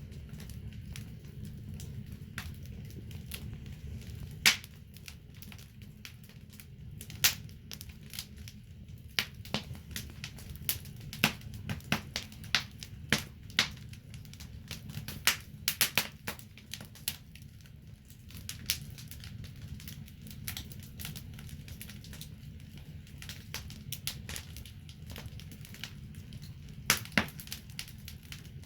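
Wood fire in a fireplace crackling, with sharp, irregular pops over a low, steady rumble of the flames; the pops come thickest in the middle.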